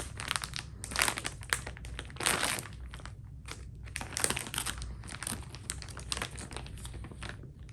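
Plastic packaging crinkling and rustling in irregular crackles as it is handled and opened by hand to get at a small toy figure.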